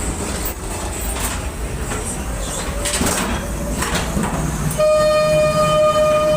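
Ghost train car rumbling and clattering along its track, with scattered knocks. About five seconds in, a loud, steady high-pitched tone starts suddenly and holds.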